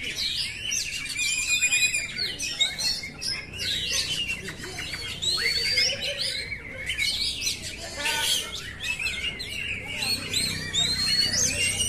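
Oriental magpie-robin (kacer) singing a continuous, varied song of clear whistles, quick rising and falling glides and short trills.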